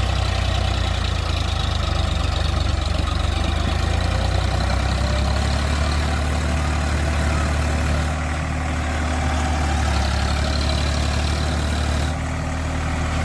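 Tractor engine running steadily at a low, even drone, dipping slightly in level twice in the second half.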